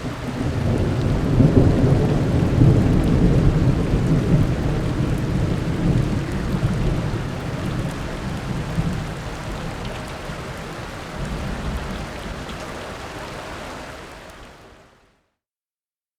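Thunder rolling during heavy rain: a long, deep rumble, loudest in the first few seconds over a steady hiss of rain, then slowly dying away and fading out about a second before the end.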